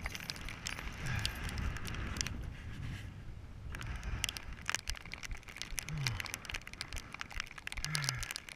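Rain striking the recording phone and wet rain gear: a dense, uneven patter of sharp clicks and crackles over a low rumble of wind. A few brief, low, falling vocal sounds break through.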